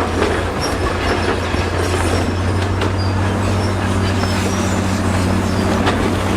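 Crawler bulldozer working: its diesel engine runs with a steady low drone under the clatter of its steel tracks, with short high squeaks from the track running gear.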